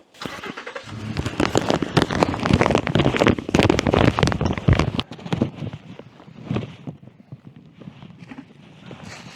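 Loud rustling and buffeting on the microphone with many sharp clicks for about five seconds, then fainter scattered clicks and rustle.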